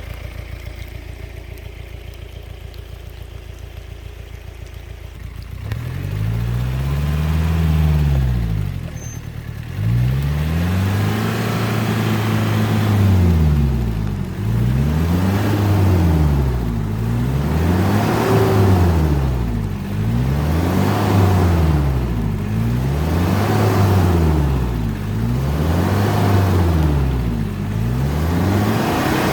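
The 2.5-litre VM Motori turbo diesel four-cylinder of a 1997 Jeep Cherokee XJ, running low and steady for the first few seconds, then revving up and down over and over, about once every two seconds.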